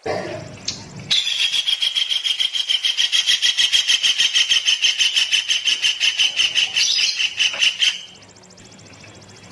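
A songbird singing one long, rapid trill on a steady high pitch, about nine notes a second, lasting about seven seconds before it stops.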